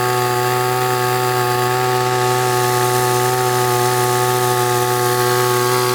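Small two-stroke engine of an AW-750W backpack power sprayer running at a steady speed.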